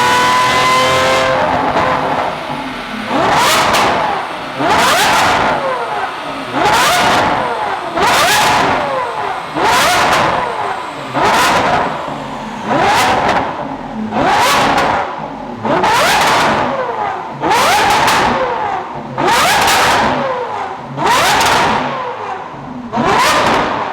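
Lamborghini Aventador's V12 engine through an aftermarket exhaust: a rising pull fades about a second in, then the engine is blipped about a dozen times, one sharp rev roughly every one and a half seconds, each falling back toward idle.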